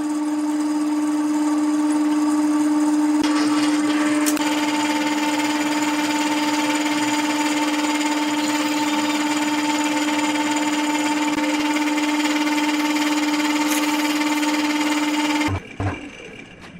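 Wood lathe running with a steady hum, stopping near the end.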